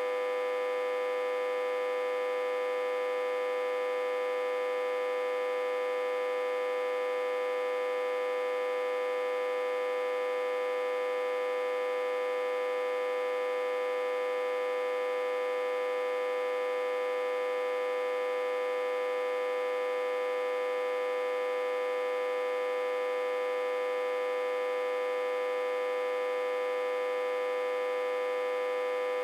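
Autotransformer, reverse-connected to a step-down transformer and fed about 60–80 V, humming: a steady, unchanging hum with many overtones.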